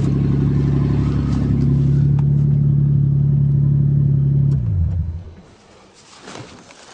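A 1984 Toyota Cressida's long-dormant engine runs steadily, then is switched off about four and a half seconds in. Its note falls as it winds down and stops.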